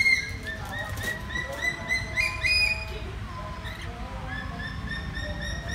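Red lory calling: a steady run of short chirps, about four a second, broken by louder, sharper calls right at the start and about halfway through.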